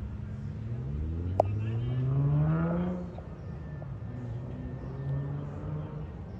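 A motor vehicle's engine accelerating, its pitch climbing for about two seconds before it eases off and settles into a lower steady hum. A single sharp click comes about a second and a half in.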